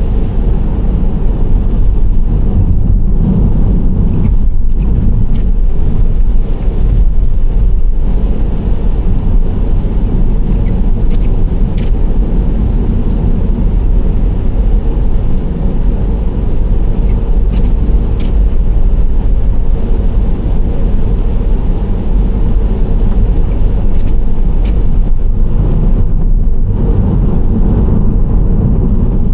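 Nissan Serena C25 minivan driving at a steady pace, a continuous low rumble of road, tyre and engine noise. A few faint, scattered clicks sit on top.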